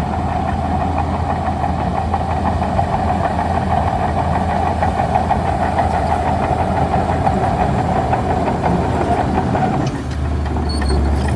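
Shantui DH17C2 crawler bulldozer's diesel engine running steadily with a whine over the low engine hum. About ten seconds in the whine drops away and the engine note changes.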